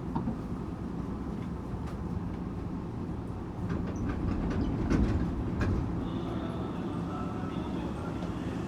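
Tokyu 8500 series electric train running: a steady rumble of wheels and Toyo-made traction motors. Clicks and a louder swell come about four to five seconds in, and a thin high tone joins about six seconds in.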